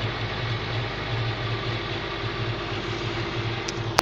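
Volga car engine idling steadily on its first test run, with a faint click shortly before the end and a sharp click right at the end.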